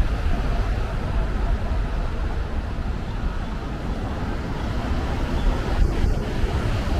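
Steady low rumble of road traffic, with two faint clicks about six seconds in.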